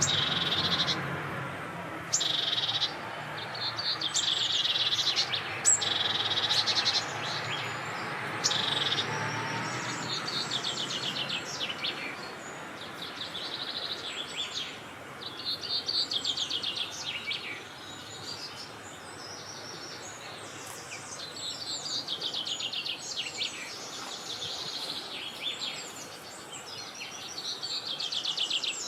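Several wild birds singing at once: overlapping chirps and quick, rapid-note trills, one phrase after another without a break. A low rumble of wind sits underneath in the first dozen seconds, then fades.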